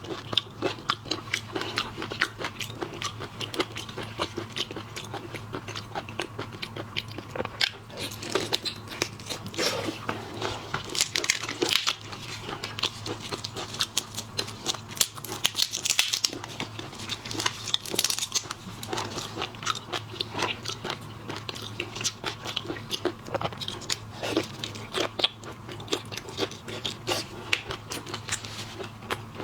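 Close-miked eating of seafood: wet chewing and crunching with many quick, irregular clicks and crackles, over a steady low hum.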